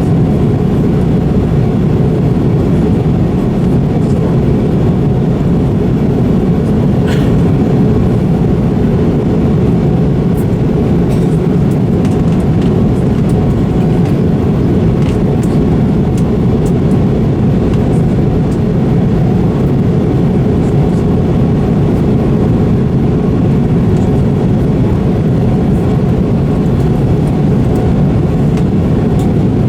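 Steady jet airliner cabin noise in flight: an even, unchanging rumble of engines and rushing air.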